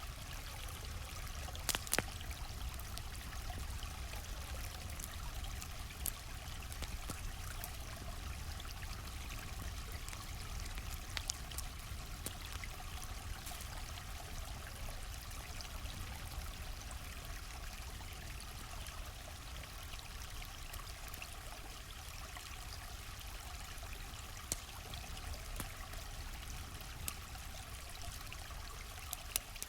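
A stream flowing steadily, with scattered sharp crackles and pops from a campfire every few seconds, the loudest about two seconds in.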